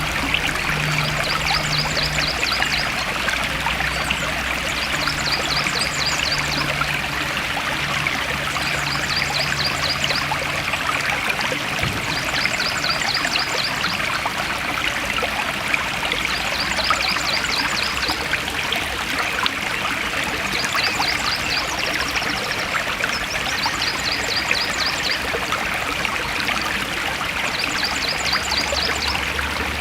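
Stream water flowing and trickling steadily, with a short high trill repeating about every two seconds over it.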